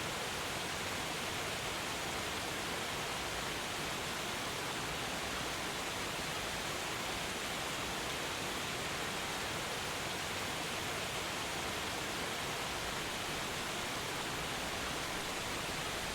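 Steady, even rushing of a waterfall, with no change in level throughout.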